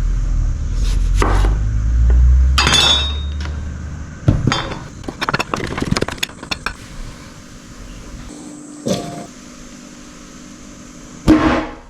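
Kitchen dishes and utensils clinking and knocking during food preparation: a low rumble for the first few seconds, then a quick run of clicks and clinks, a thump, and one loud knock near the end.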